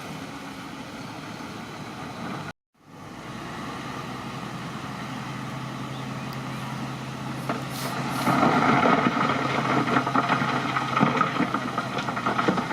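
Crawler bulldozer's diesel engine running steadily, briefly cut off about two and a half seconds in, then louder from about eight seconds in with rapid clanking from the steel tracks as the machine works.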